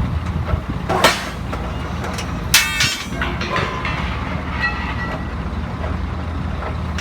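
Toyo C43 electric rebar cutter running with a steady hum, with a sharp metallic clack about a second in and another about two and a half seconds in that rings briefly, as the shear blades chop steel bar.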